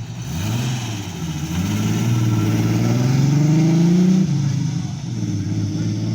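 TVR Chimera's V8 engine accelerating away, its pitch climbing for about three seconds, then dropping back as the revs fall about four seconds in.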